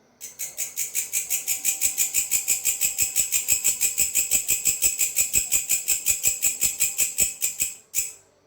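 A belalang, a grasshopper-type insect, calling: a loud, high rasping trill of rapid, even pulses lasting about seven and a half seconds. It stops, gives one short extra burst, then falls quiet.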